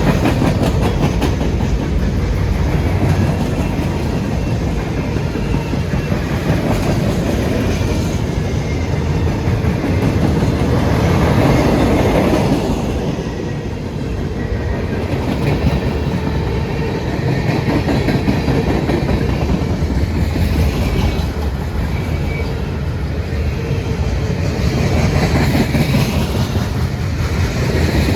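Freight train cars rolling past at close range, their wheels clattering steadily over the rail joints.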